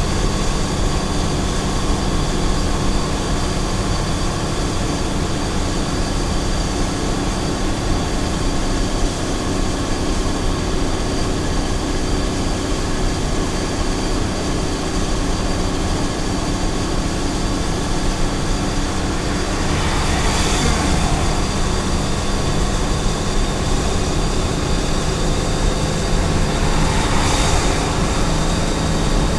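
Small truck's engine running steadily at highway speed, with tyre and road noise. Two brief whooshes pass, about two-thirds through and near the end.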